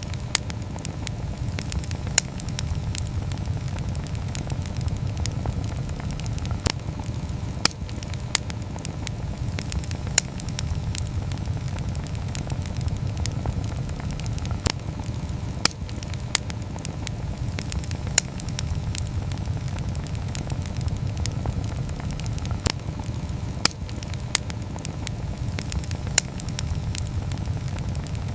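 Wood campfire burning: a steady low rush of flames with irregular sharp crackles and pops from the wood, a dozen or so of them loud.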